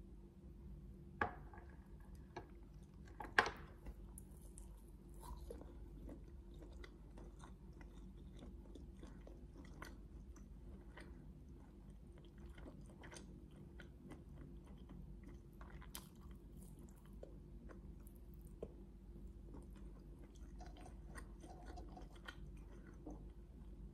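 A person quietly chewing grilled chicken satay, with many faint wet mouth clicks. Two sharper clicks stand out about one and three seconds in.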